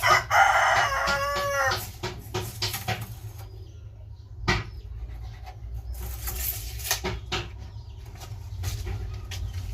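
A rooster crows once, a crow of nearly two seconds that falls in pitch at the end. A few sharp knocks and clicks follow over a steady low rumble.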